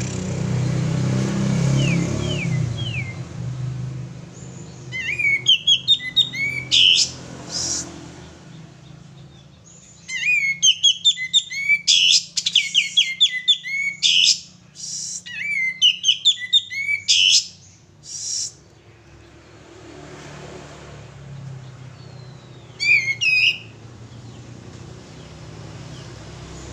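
A male kapas tembak songbird singing in loud bouts of rapid, repeated up-and-down whistled notes, four bursts of song separated by pauses, over a low background hum.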